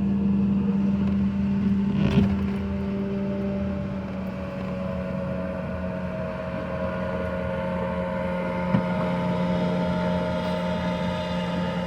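A boat motor idling steadily, with a couple of brief knocks over it.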